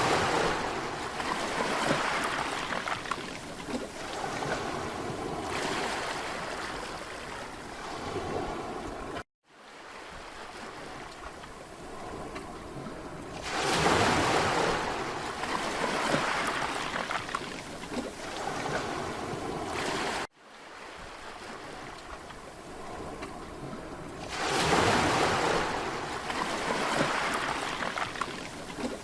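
Mediterranean sea waves breaking on a beach and washing back, a rushing surge swelling and fading about every ten seconds. The sound cuts out abruptly twice, for a split second each time.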